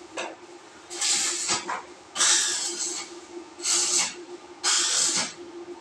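Power sprayer spraying in four short bursts of hissing water spray, over a steady hum.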